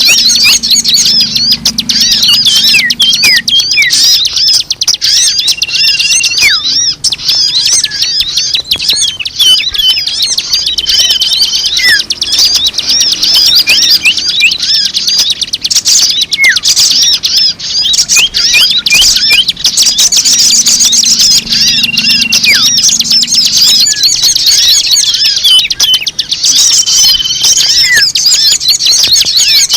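Bird-lure track: a dense chorus of many small birds chirping and twittering at once, with a short steady whistled note now and then. The passage repeats about every sixteen seconds, as a looped lure recording does.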